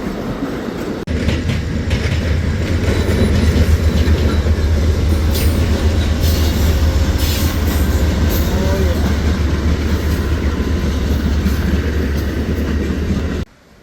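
Amtrak train rolling past, with wheels clicking over rail joints over a steady heavy rumble. The sound jumps louder about a second in and cuts off suddenly near the end.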